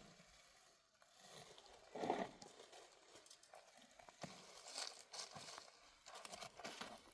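Hooves of a horse-like animal stepping, irregular sharp knocks through the second half, with one short, louder sound about two seconds in.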